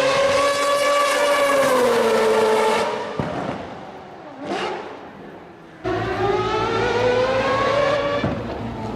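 Race car engine at high revs, its pitch sagging slowly for about three seconds before it cuts off abruptly. A short whine follows, then another race car engine starts suddenly about six seconds in and climbs in pitch.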